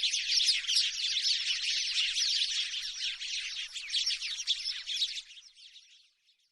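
House sparrows chirping in a rapid, dense chatter that drops off about five seconds in and stops shortly before the end.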